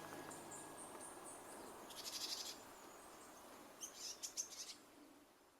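Small birds calling faintly. A thin run of very high notes opens it, then two short bursts of rapid chirps come about two and four seconds in, and the sound fades out at the end.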